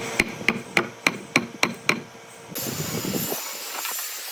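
Hammer striking in a quick, even run of eight blows, about four a second, followed by a steady hiss.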